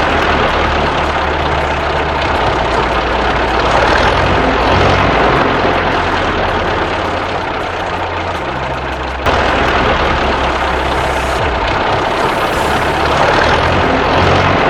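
A steady, loud engine-like running noise with a low hum underneath that shifts pitch in steps. It jumps louder abruptly right at the start and again about nine seconds in.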